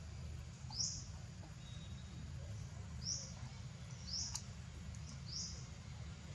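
A small bird giving short, high, upward-flicking chirps, four in all at irregular intervals of about a second, over a low steady rumble.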